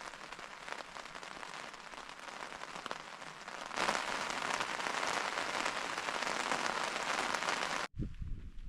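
Heavy rain pattering on a tent, a dense steady hiss that grows louder about four seconds in. It cuts off abruptly near the end, giving way to a low rumble.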